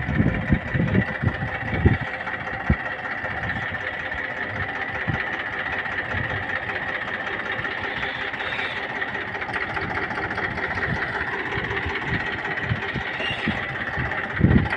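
Tractor diesel engine running steadily, with a few irregular low thumps in the first three seconds.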